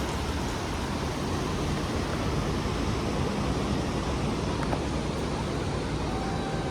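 Surf washing onto a sandy beach: a steady, even rush of noise with no separate breaks standing out.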